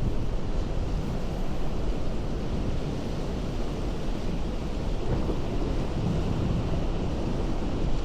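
Ocean surf breaking on a rocky shore: a steady, deep rumble of waves with no breaks, swelling slightly about five seconds in.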